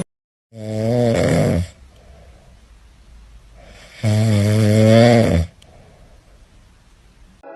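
Loud snoring: two long snores about three seconds apart, each with a low, wavering pitch, with faint breathing between them.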